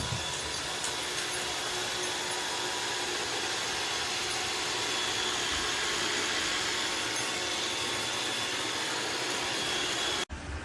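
Roomba robot vacuum running: a steady whir with a faint high whine through it. It starts abruptly and cuts off suddenly near the end.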